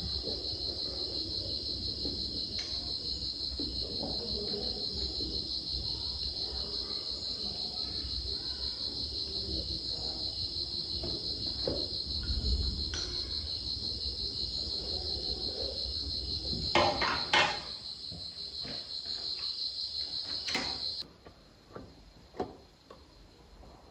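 Insects chirping in a steady, high, finely pulsing trill that cuts off suddenly near the end. A few sharp knocks stand out two-thirds of the way through, with another a few seconds later.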